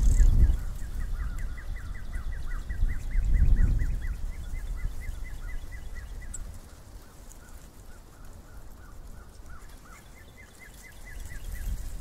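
A bird calling in a fast series of short, repeated chirps, about four a second; it stops after about seven seconds and starts again near the end. Low rumbling swells under it at the start and again around three to four seconds in.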